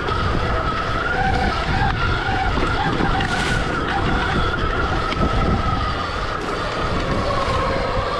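Stark Varg EX electric dirt bike's motor whining, its pitch drifting up and down with the throttle, over a steady low rumble.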